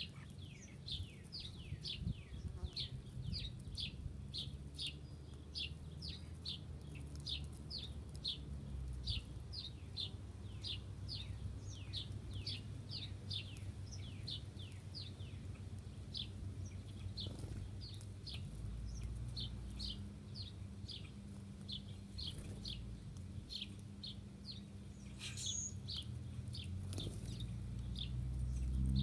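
A small bird chirping over and over in short, high, downward-slurred notes, about three a second, over a steady low hum.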